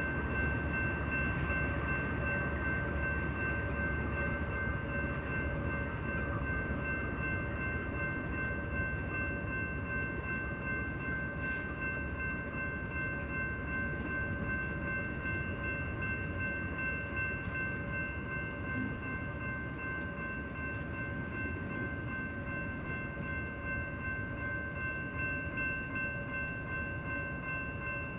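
Intermodal freight train rolling on the rails: a steady low rumble of wheels with several steady high ringing tones held throughout, slowly growing quieter.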